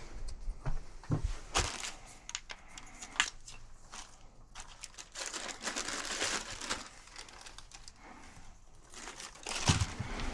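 Rustling and crinkling with scattered clicks and knocks, as things are handled by hand; the rustle is densest about halfway through, and a few louder knocks come near the end.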